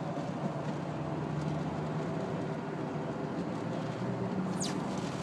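Steady engine and road noise of a car being driven, heard from inside the cabin. A short high squeak falls sharply in pitch near the end.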